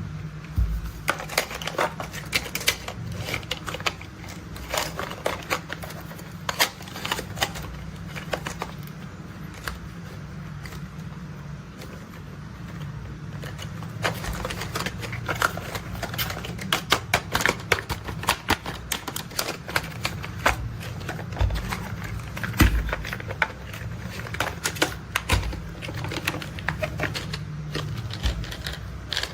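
Toy construction vehicles being handled: quick, irregular plastic clicks and clatters, busier in the second half, over a steady low hum.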